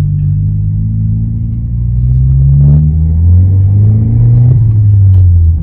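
Toyota Corolla 1.2-litre turbocharged four-cylinder with an aftermarket exhaust, heard from inside the cabin while driving: the engine note climbs steadily as the car accelerates, then drops near the end as it changes gear.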